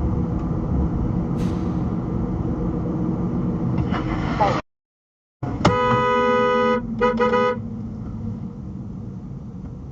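Motorcycle engine and wind noise running steadily from a riding camera, cutting off about halfway through. A vehicle horn then sounds one long honk followed by two short honks over continuing road noise.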